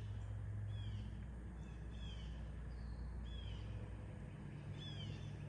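A songbird repeating a short, high, falling chirp about once a second, over the steady low drone of a lawn mower running in the distance.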